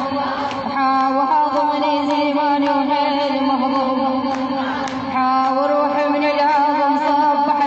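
A woman chanting an Arabic elegy poem in long, wavering drawn-out notes, with a steady lower tone held underneath.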